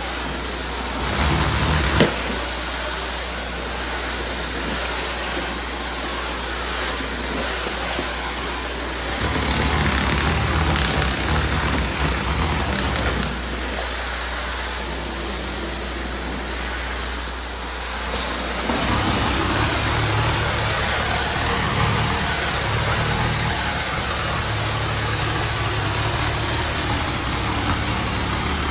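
Tile-cleaning extraction equipment running steadily with a vacuum-like noise. A low hum comes in at about nine seconds and again from about nineteen seconds, as the load on the machinery changes.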